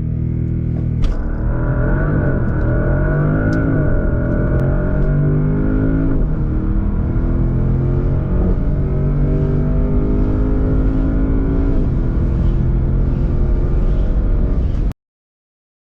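Twin-turbo V8 of a 2024 Porsche Panamera Turbo E-Hybrid under full-throttle acceleration. The engine note climbs steadily and drops sharply at each upshift: about a second in, around three and a half seconds, around six seconds and around twelve seconds. The sound cuts off abruptly near the end.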